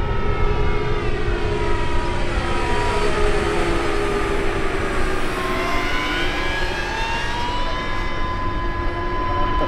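Electric ducted fans of a large RC Boeing 777X model jet in flight, a steady rushing whine whose pitch slowly falls over the first few seconds and then rises again toward the end.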